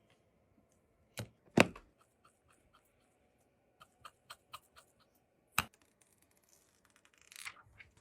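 Clicks and taps of small hard objects being handled, with two sharp knocks about a second and a half in and another sharp knock a little past five seconds, then a brief rustle near the end.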